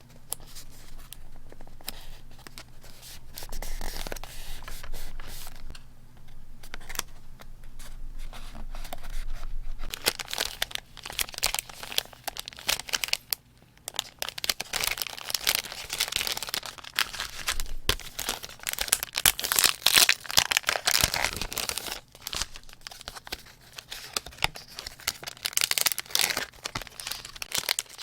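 Paper being torn and crinkled by hand, a dense crackling that grows louder and busier about ten seconds in and eases off near the end.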